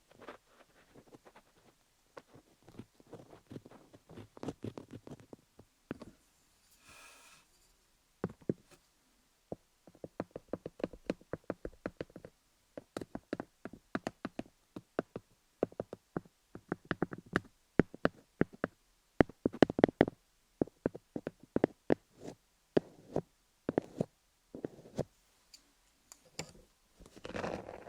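Colored pencil scribbling and tapping over wooden picks on a handmade ASMR tingle device, making a dense, irregular run of small clicks and taps that grows busier after the first several seconds. A short squeaky scrape comes about seven seconds in.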